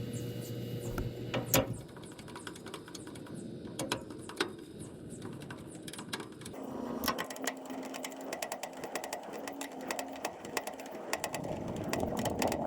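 Small metallic clicks and rattles of hand tools and parts being handled inside an air conditioner's outdoor unit, scattered at first, then a dense run of ticking from about halfway.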